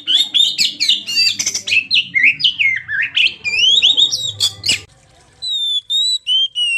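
Oriental magpie-robin (kacer) singing: a fast, varied run of quick rising and falling whistled notes, with a faint low hum beneath. Just under five seconds in the song breaks off briefly, then resumes as clearer, more spaced whistles.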